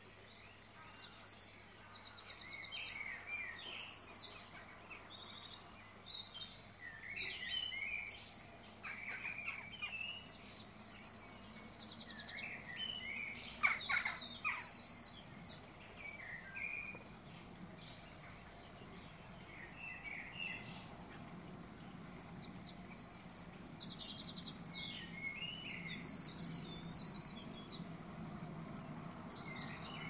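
Several birds chirping and singing, with quick buzzy trills that come in clusters a few seconds in, around the middle and near the end.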